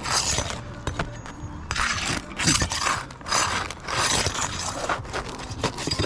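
Repeated scraping as a roof shingle is worked loose and its nails pried out, about one rasping stroke a second.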